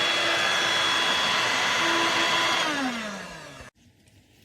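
Dirt Devil Vibe corded stick vacuum running with a steady whine, then switched off about two and a half seconds in, its pitch falling as the motor spins down before the sound cuts off.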